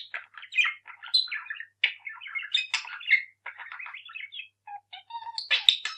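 Budgerigar chattering: a fast run of short chirps and warbling notes, with a brief pause about two-thirds of the way through.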